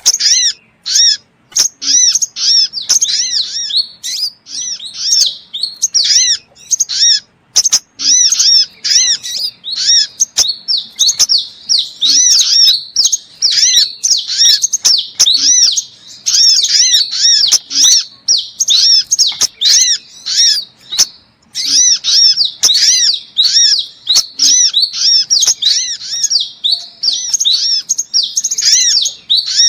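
Sunbirds singing and calling: a dense, nearly unbroken stream of high, quick chirps and twittering trills, with only brief gaps.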